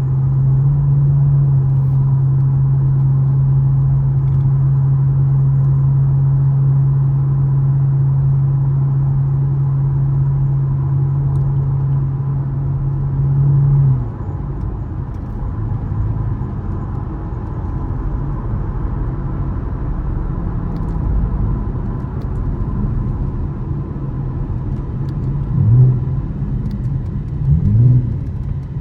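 2013 Camaro LS engine running while driving: a steady drone under throttle that drops away about halfway through when the throttle is lifted. It then runs lower and rougher, with two short revs near the end.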